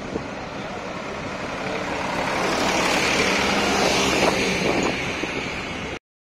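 Tractor diesel engine running and growing louder, as if drawing closer. It cuts off suddenly near the end.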